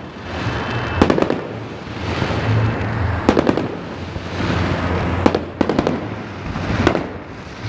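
Fireworks salute: shells bursting in sharp bangs, in clusters about every one to two seconds, over a continuous rolling rumble of more distant bursts.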